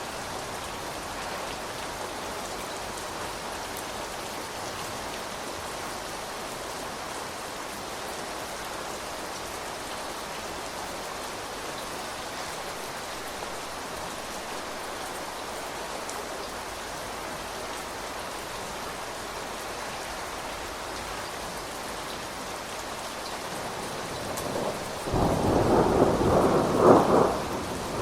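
Steady rain falling. Near the end, a roll of thunder rumbles up loudly, peaking just before it closes.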